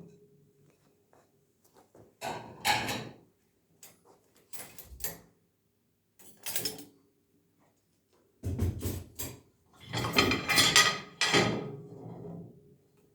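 Dishes and cutlery being unloaded from a dishwasher: several short bursts of clattering and sliding with pauses between, the longest and loudest spell a little past the middle.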